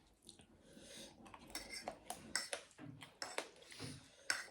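Eating sounds at a meal: a scattering of short, light clicks and clinks of cutlery and dishes, along with soft chewing.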